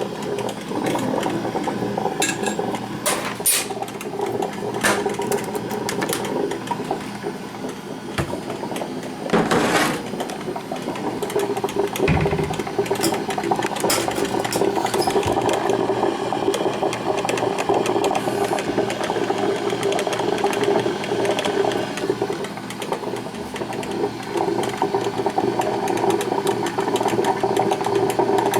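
Black & Decker thermal carafe drip coffee maker brewing, a steady running noise from start to end. A few clicks come in the first few seconds, and there is a louder knock about nine seconds in.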